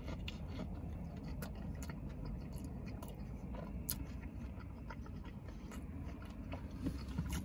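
A person quietly chewing a mouthful of a Detroit-style coney dog, with soft steamed bun and chili sauce, giving small, scattered wet mouth clicks over a steady low hum.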